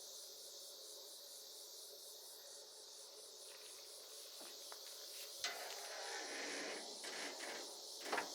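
Crickets chirping steadily in a high, even pulsing drone, with a couple of light knocks, one about five and a half seconds in and another near the end.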